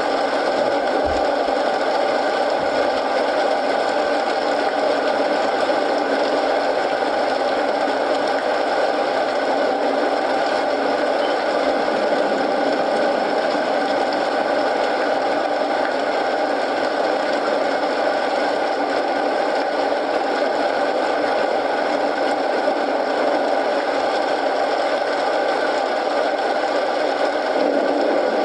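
Steady rain mixed with the crackle of a burning wood fire, an even wash with no pauses. There is a faint low knock about a second in.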